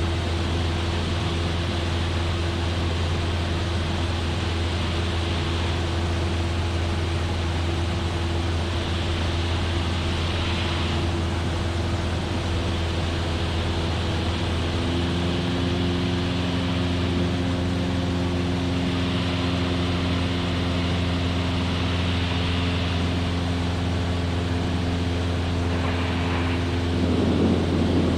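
Cessna 172F's engine and propeller droning steadily in cruise flight, a constant low hum with a few steady tones above it that shift about halfway through.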